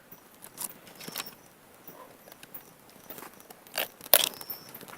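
Dry twigs and leaves rustling and crackling in short, scattered snaps, with two louder snaps close together about four seconds in.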